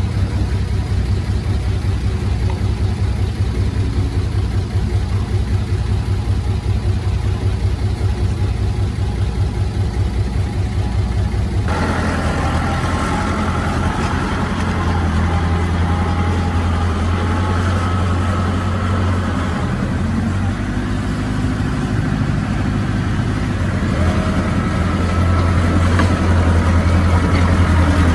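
Heavy diesel engine of earthmoving machinery running steadily, from a bulldozer or dump truck working soil. About twelve seconds in the sound changes abruptly to a stronger engine hum with higher whining tones, and it grows a little louder near the end.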